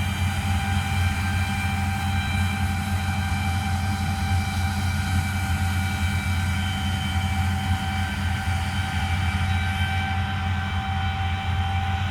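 Harvest machinery running steadily: a constant low engine drone with several steady whining tones above it.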